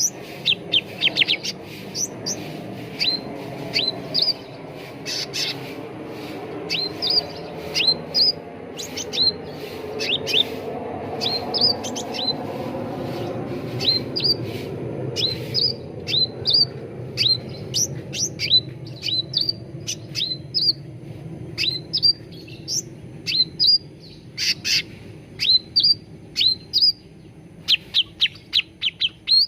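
Cucak ranting calling: rapid clusters of short, sharp chirps that sweep up and down in pitch, repeated over and over. A low steady background hum lies underneath.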